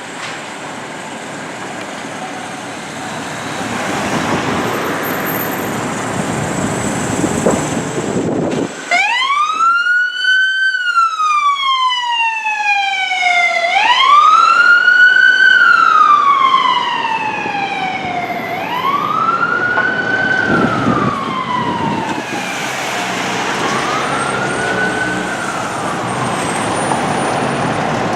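Street traffic and heavy engine noise, then about nine seconds in a fire truck's siren starts to wail, each cycle rising quickly and falling slowly, four times, fading toward the end.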